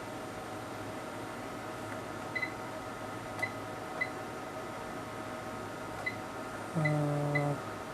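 Short, high electronic beeps, about six of them spread over several seconds, of the kind bench test instruments give at front-panel keypresses, over a steady hum of instrument fans and electronics. Near the end a louder, low buzzing tone sounds for just under a second.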